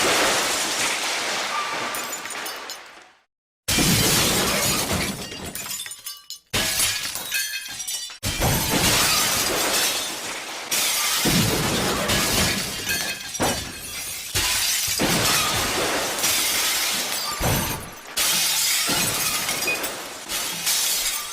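Glass breaking, one shatter after another: each a sudden crash followed by shards tinkling and settling. The breaks come several seconds apart at first, then close together and overlapping near the end.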